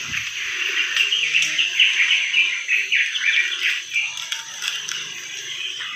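Many birds chirping rapidly and continuously in a busy chorus, thinning out in the last second or two.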